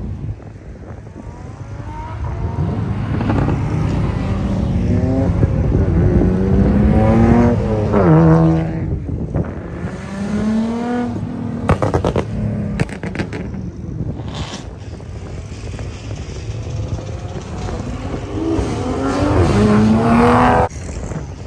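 Car engines accelerating hard, their pitch climbing steeply through the revs in three pulls, with a few sharp cracks in the middle. The last pull cuts off suddenly near the end.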